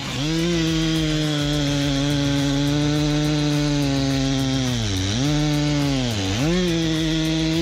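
A chainsaw running at high revs and cutting wood. It holds a steady pitch, then sags twice about five and six seconds in as the chain bites into the cut, recovering each time.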